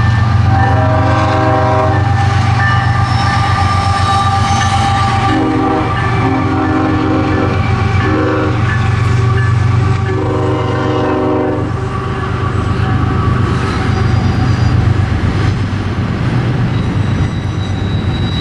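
CSX freight train led by GE ES44AH and ET44AH diesel locomotives, its engines giving a loud steady low rumble as it passes. The locomotive horn sounds a chord in a series of long and short blasts: one long blast near the start, a run of long and short blasts in the middle, and a last long blast about ten seconds in.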